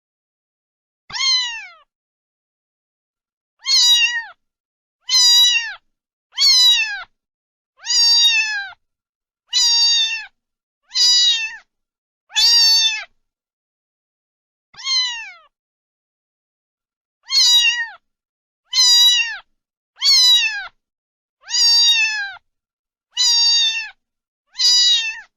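A domestic cat meowing over and over, about fifteen short, high meows of near-identical shape, each falling in pitch at the end, with dead silence between them.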